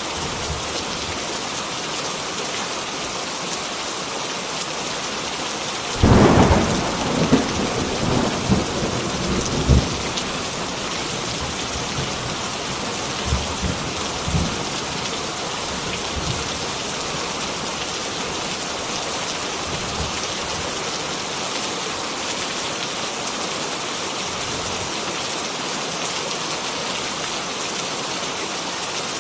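Heavy rain falling steadily, with a sudden thunderclap about six seconds in that rumbles on for several seconds, and fainter rolls of thunder a little later.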